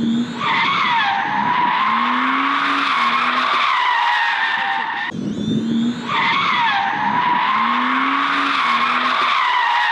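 Drift car sliding, its tyres giving one long squeal that wavers in pitch over the engine revving. The same roughly five-second slide is heard twice, with a short break between.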